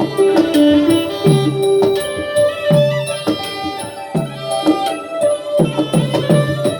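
Nora ensemble music: low hand-drum strokes that bend in pitch under a held melodic line, with high ringing metallic tones.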